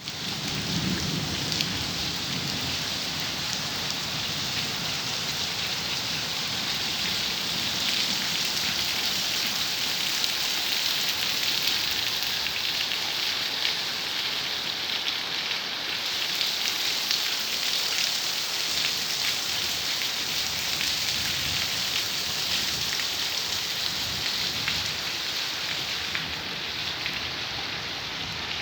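Steady rain falling, a dense hiss of many drops pattering on surfaces, slightly easing near the end.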